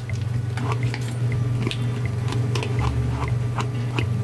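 Close-miked chewing and biting of food, with scattered small clicks, over a steady low hum.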